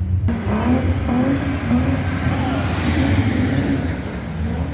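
A car engine revving; it starts suddenly and runs for about four seconds, wavering in pitch, over a steady low engine rumble.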